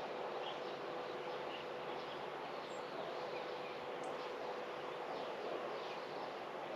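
Outdoor morning ambience: a steady background hum, like distant traffic, with faint scattered bird chirps throughout.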